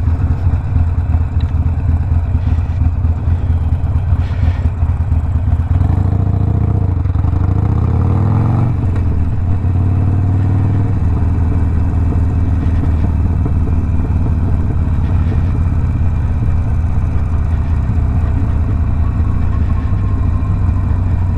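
A Harley-Davidson Sportster Iron 1200's air-cooled V-twin running under way through a Two Brothers 2-into-1 exhaust. It climbs in pitch from about six seconds in, drops back suddenly near nine seconds, then runs steady.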